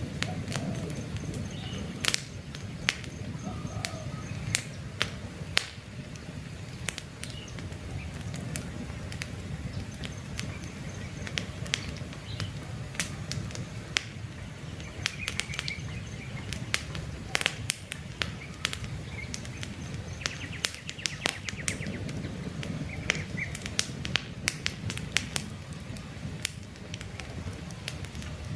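Wood campfire crackling, with frequent sharp irregular pops over a steady low rumble of burning. Small birds chirp faintly now and then.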